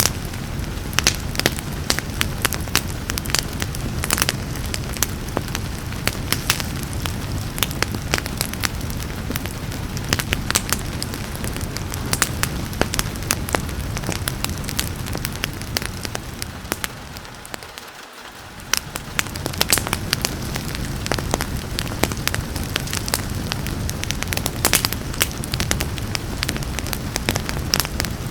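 Wood fire crackling, with many sharp pops over a steady low rumble and hiss. The whole sound fades down briefly about two-thirds of the way through, then comes back.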